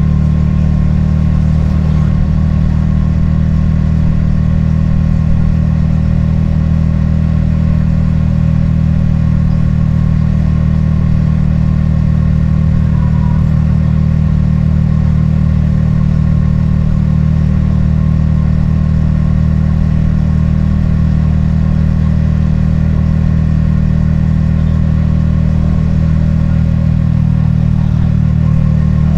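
Yamaha XSR155's single-cylinder engine and exhaust running at a steady cruise, pitch holding nearly constant.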